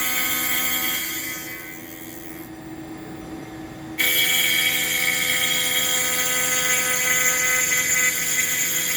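Spindle of a home-built CNC router running with a steady high whine while it face-mills a pine board. The sound dips a second or two in, then comes back suddenly louder with more hiss about four seconds in.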